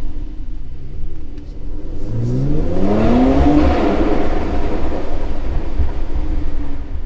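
Mercedes-AMG C43's twin-turbo V6 through the AMG performance exhaust in an underground car park, accelerating: the engine note rises in pitch for about a second and a half from about two seconds in, then runs loud and fades near the end.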